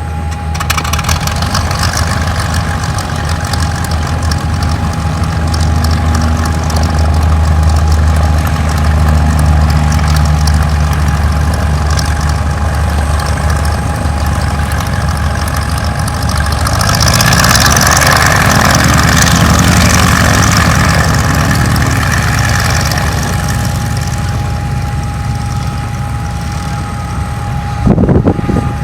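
A vehicle engine running at idle: a steady low rumble with a constant whine over it. A louder rushing noise swells up in the middle and dies back down.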